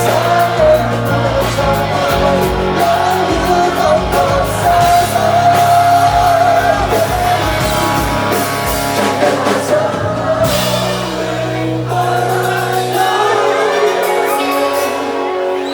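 Live rock band playing: a wavering lead melody over bass guitar and drums. The drums drop back for a moment about ten seconds in.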